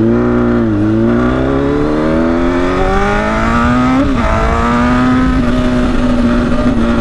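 Kawasaki ZX-10R inline-four engine running straight-piped with the slip-on muffler removed, very loud: it dips briefly, climbs steadily in pitch as the bike accelerates, drops suddenly about four seconds in as he shifts up, then holds a steady pitch. Wind rumbles on the microphone underneath.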